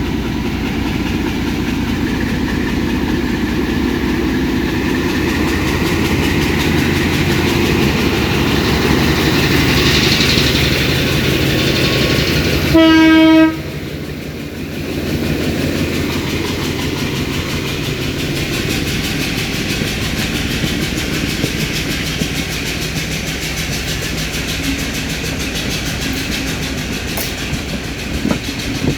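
Sri Lanka Railway M10 diesel locomotive working as it pulls a train out of a station, its engine drone building over the first ten seconds. A single short horn blast, the loudest sound, comes a little before halfway. Afterwards comes the steady rumble and clickety-clack of the wheels and carriages rolling past.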